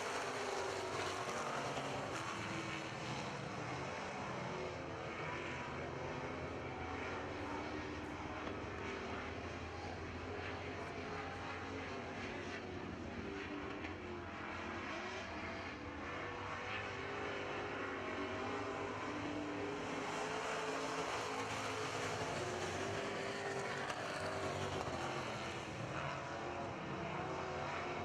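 A field of dirt-track super trucks racing around the oval: several engines running at high revs together in a steady drone, their pitches rising and falling as the trucks go through the turns.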